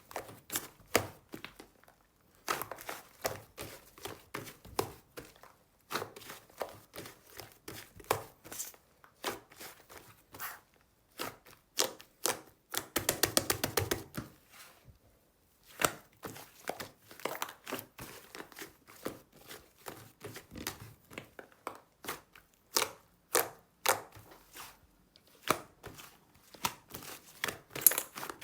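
Slime layered with clay slime being pressed, poked and pulled by hand, giving a string of sticky clicks and small pops. About halfway through comes a quick rattling run of pops.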